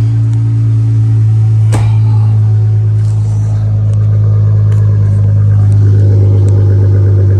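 Chrysler 300S's 3.6 L Pentastar V6 idling steadily, just restarted on a freshly installed battery, with a single sharp knock about two seconds in.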